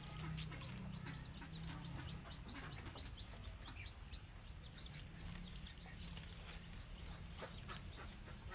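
Free-range chickens peeping and clucking: many short, high, falling peeps, several a second, over a steady low hum.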